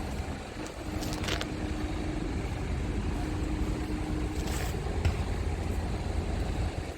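Scania R400 truck's diesel engine idling steadily, with wind rumbling on the microphone and a brief hiss twice.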